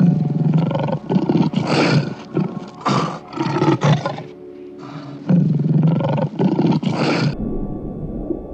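A large animal roaring loudly in a run of repeated calls, in two bouts with a break of about a second between them. The roaring stops abruptly near the end, leaving a low rumble.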